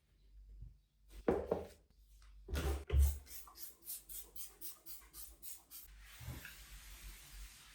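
Household cleaning sounds: a few handling knocks, then a quick run of short scraping strokes, about four a second, followed by a steady hiss near the end.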